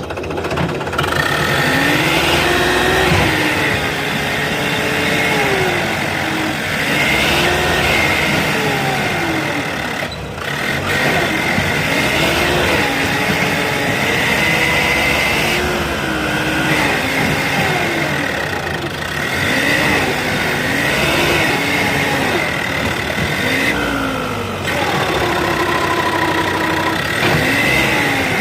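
Mahindra Turbo 595 tractor's diesel engine running under load, its pitch rising and falling again and again as the throttle is worked, as the tractor struggles to pull free after getting stuck.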